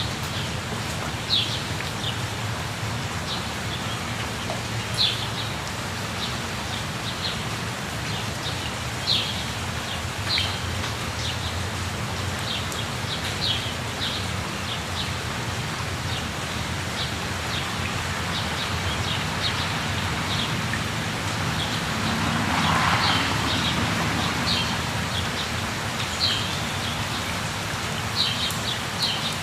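Steady rushing of falling water, with small birds chirping in short, high calls every second or two above it. About three-quarters of the way through the water noise swells briefly.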